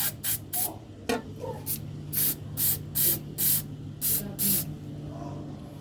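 Short hissing spray bursts, about a dozen at roughly two a second, blown through a carburettor main jet that has just been unblocked and is now passing flow. A steady low hum runs underneath.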